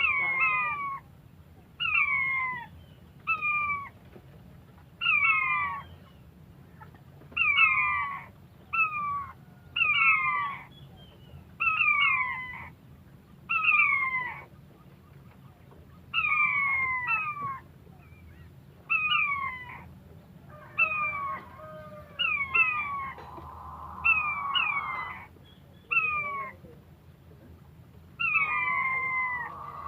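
Wild quail calling: short calls sliding down in pitch, repeated every second or two and sometimes in quick pairs.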